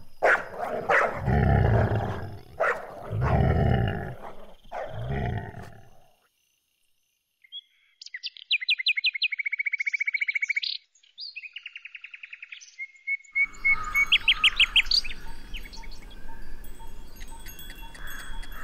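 Birds singing: several phrases of rapid trills, each a quick run of high repeated notes, followed by scattered chirps over a faint outdoor background. Before the birds, about four low, drawn-out rumbling sounds end in a few seconds of silence.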